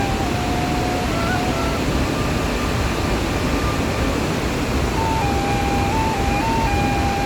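Steady roar of the Iguaçu Falls waterfall. Over it, a faint thin tune of held notes stepping up and down in pitch comes in the first second or so and again from about five seconds in.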